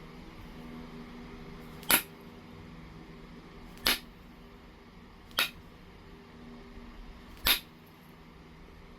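Heat-treated Oregon jasper being flintknapped: four sharp clicks of stone being struck as flakes come off, roughly every one and a half to two seconds.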